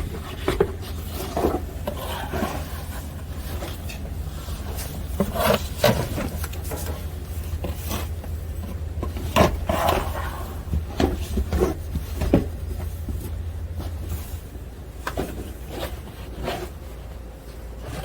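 Snow shovel scraping and scooping snow, a dozen or so short irregular strokes, over a steady low hum that fades out about fourteen seconds in.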